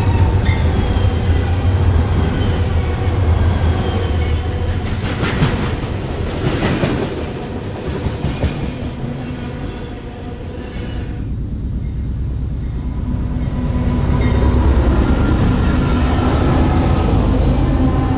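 Freight train passing close by: diesel locomotives running past, then covered hopper cars clattering over the rails with thin, high wheel squeals. In the second half a steady diesel engine drone builds again alongside the cars.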